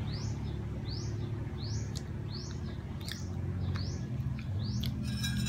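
A bird chirping over and over, one short rising chirp about every 0.7 seconds, with a steady low hum underneath.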